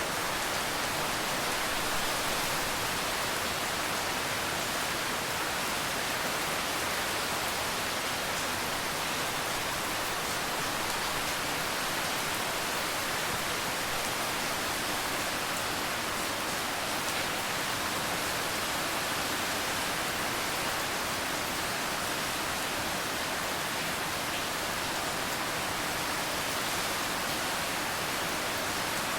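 Steady rain falling, an even hiss with faint fine drop ticks through it.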